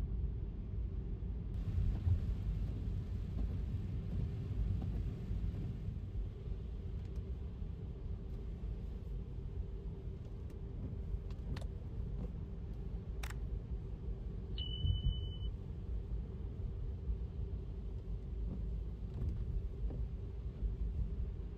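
Car driving on wet city streets: a steady low rumble of tyres and road noise. Near the middle come two sharp clicks, then a brief steady high beep lasting about a second.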